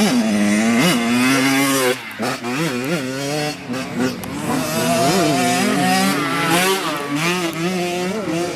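Dirt bike engines revving on a race course, their pitch climbing and dropping again and again as the bikes accelerate and shift.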